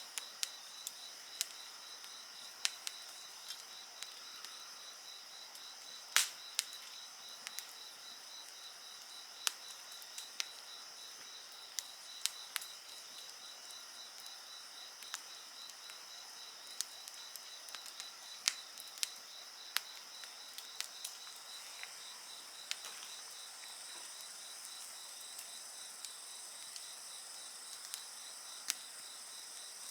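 Wood fire crackling with irregular sharp pops, the loudest about six seconds in, over insects chirping in a steady, pulsing high-pitched chorus.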